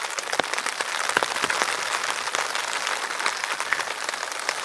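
Rain pattering steadily on the tent fly, heard from inside the tent: a dense hiss of many small irregular drop taps.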